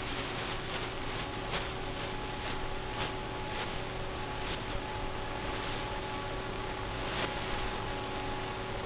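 Steady hiss with a faint electrical hum and scattered crackling clicks, the static of an analog FPV video link's audio channel recorded by the goggles' DVR.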